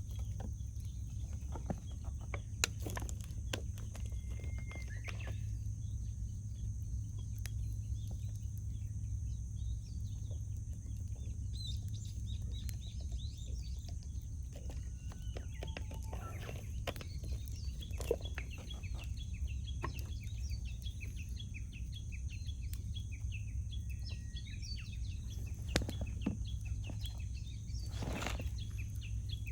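Wood campfire crackling, with frequent small clicks and a few sharper pops, while birds chirp and call in the background over a steady low rumble.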